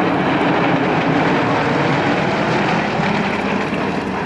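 Engines of a formation of propeller-driven aerobatic display aircraft flying past, a loud steady drone that eases off slightly near the end.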